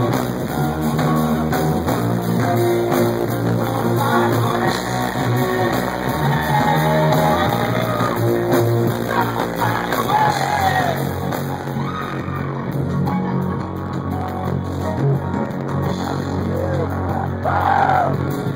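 Live rock band music at high volume, guitar and sustained chords with voices over them.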